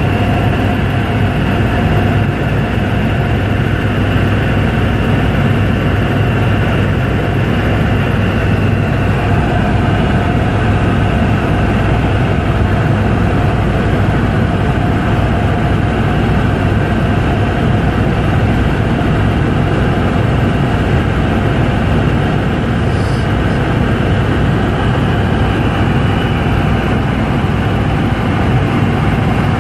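Helicopter in flight: a loud, steady drone of rotors and engine that stays level throughout, with a low hum at its base.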